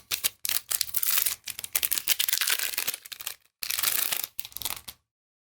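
Crinkling and rustling of Magic: The Gathering booster packs and cards being handled: a dense run of crackles and sharp flicks lasting about five seconds, then stopping abruptly.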